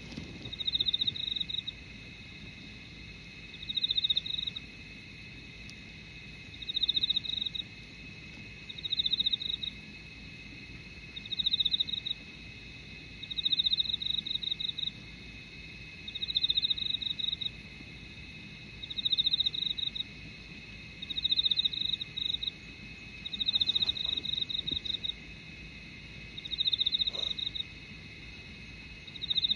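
Insects calling at dawn: one insect sings short buzzy chirping phrases, each about a second long and repeated every two to three seconds, over a steady high continuous trill from other insects.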